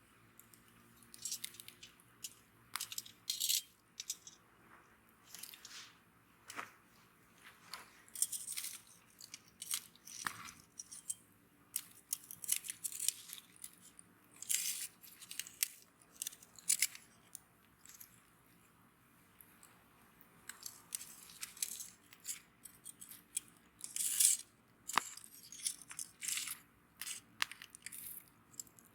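Wood bonfire crackling: irregular sharp snaps and pops, some in quick clusters, with quiet gaps between them.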